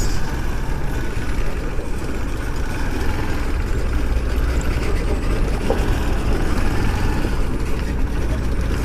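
A moving vehicle's engine and road noise as a steady low rumble.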